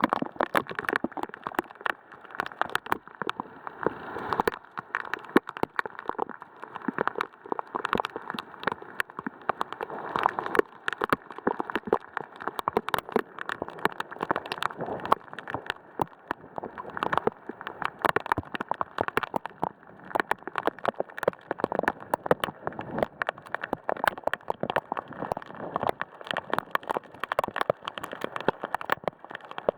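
Heavy rain from a thunderstorm pattering on a hard surface close by, a dense, irregular stream of sharp drop impacts over a steady hiss.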